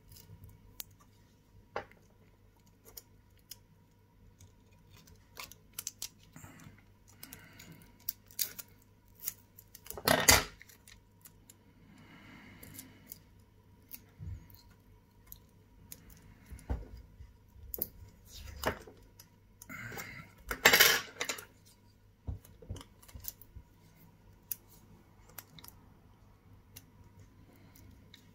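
Small metal repair tools, such as tweezers, clicking, tapping and scraping on a phone motherboard and workbench while capacitors are being removed. Two louder, longer scrapes or clatters come about ten and twenty seconds in, over a faint steady hum.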